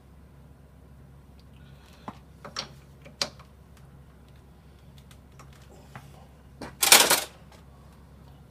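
Metal clicks and a clatter as a 4-jaw lathe chuck is adjusted with its chuck key to center a steel slug: a few sharp clicks about two to three seconds in, then a louder half-second clatter near the end.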